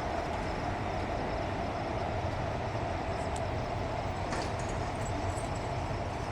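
A train running at the station: a steady, even rumble with a constant hum that does not change.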